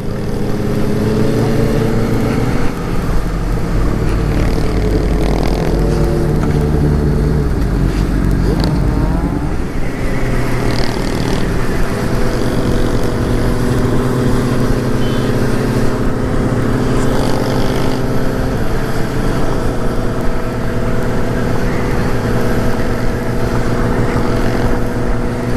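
Motorcycle engine running while riding, with wind rushing over the microphone. The engine note shifts and drops a few times in the first ten seconds, then holds steady at cruising speed.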